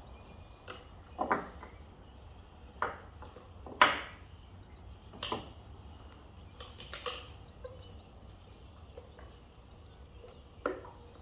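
Scattered sharp clicks and knocks of ignition coils and small engine-bay parts being handled and set in place, about seven separate taps with the loudest about four seconds in.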